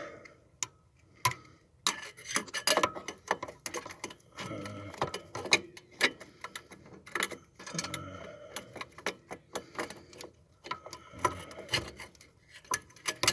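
Irregular metallic clicks and clinks as a wastegate and hand tools are worked into place on a turbocharger, some with a short ring.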